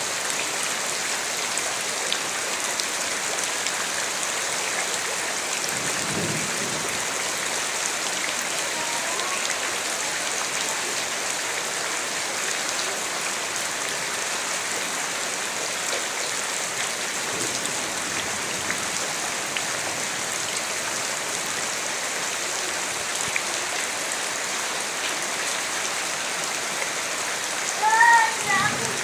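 Steady rain falling, an even hiss. Near the end a short, loud run of quick chirping calls cuts through.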